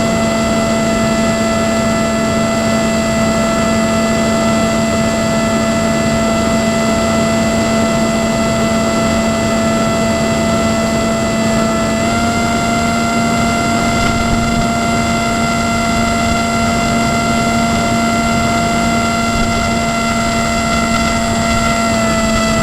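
Small multirotor drone's motors and propellers whirring steadily. The pitch steps up slightly about twelve seconds in.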